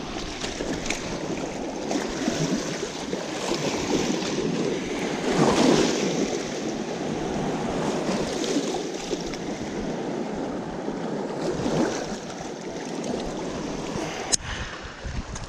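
Rough, fluctuating outdoor rush of wind and water with no clear tone, surging a little about five seconds in. A single sharp click comes near the end.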